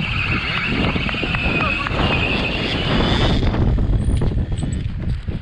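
Heavy, gusty wind rumble on the microphone, with a high, steady whine for about the first three and a half seconds.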